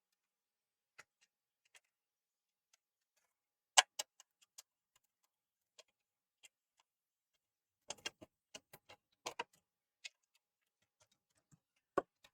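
Sparse sharp clicks and taps from small console parts and tools being handled while a PlayStation 4 Slim is reassembled. A louder double click comes about four seconds in, and a quick cluster of clicks comes a little past eight seconds.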